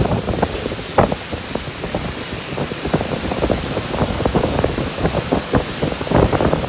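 Heavy rainstorm: rain pouring steadily, with irregular low gusts and thumps of wind buffeting the microphone.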